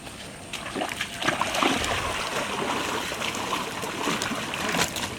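Water splashing and sloshing as a homemade boat made from a 100-litre oil can is lowered into a river, with a few sharp knocks mixed in.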